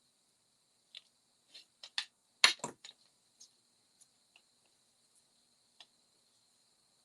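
Scattered light clicks and taps from handling small paper pieces and adhesive dots at a crafting table, with two louder sharp clicks close together about two and a half seconds in.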